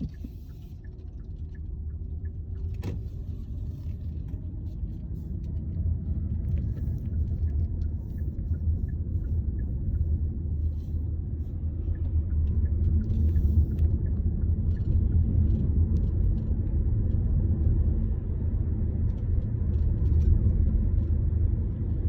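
A low, steady rumble that grows slowly louder, with faint scattered ticks above it.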